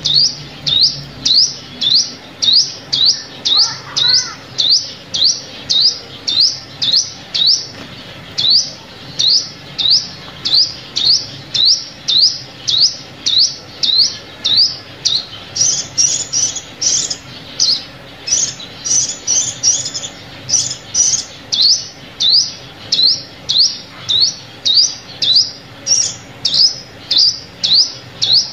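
Sunbird call note, a sharp high chip repeated steadily about one and a half times a second, as used in a lure recording. For a few seconds past the middle the notes come higher and closer together.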